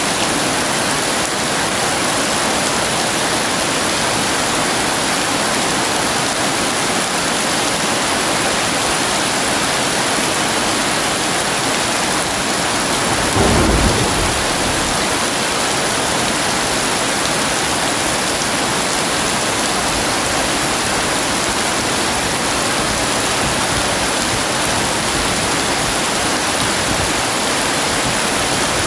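Heavy rain falling steadily, with one short, low thunder rumble about halfway through.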